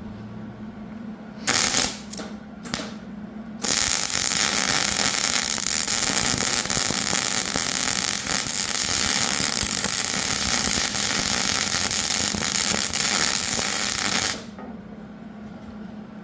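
Hobart welder arc welding on steel plate to fill bullet dents: two short strikes of the arc, then a steady crackling weld bead for about ten seconds that stops abruptly near the end.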